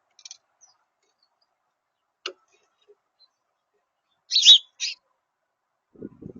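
Short high bird calls at a backyard feeder: a faint chirp near the start, then two loud sharp calls in quick succession about four and a half seconds in. A sharp click comes a little past two seconds, and a soft low rustling patter near the end.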